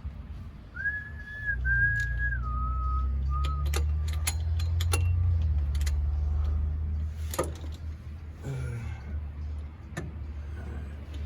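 A few whistled notes, followed by sharp metallic clicks of hand tools working the flywheel bolts. A low rumble, loudest in the middle, runs under them.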